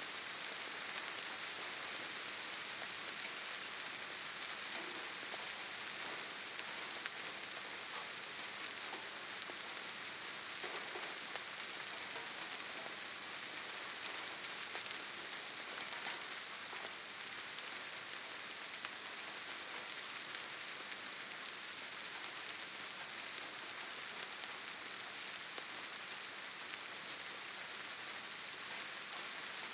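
Steady rainfall, an even hiss of drops with faint scattered ticks of individual drops.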